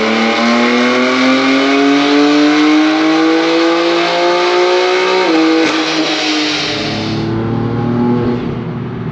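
BMW F80 M3's twin-turbo inline-six, fitted with Mosselman Stage 2 hybrid turbos, pulling under load on a chassis dyno: the revs climb steadily for about five seconds, then drop with a short sharp snap. After that comes a lower, steadier engine drone.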